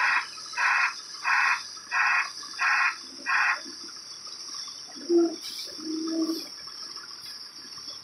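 A bird giving a run of harsh calls, evenly spaced less than a second apart, about six in all, that stops a little before halfway. Two short, lower sounds follow about two seconds later.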